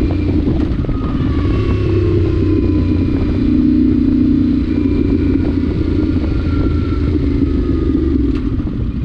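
Yamaha Ténéré 700's parallel-twin engine running under way, its exhaust with the spark arrestor removed. The engine note holds fairly steady, with slight rises and falls in revs.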